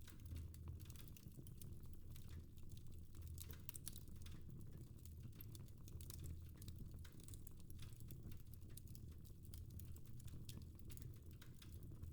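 Fire crackling in a fireplace: a steady run of irregular quick pops and snaps over a low rumble.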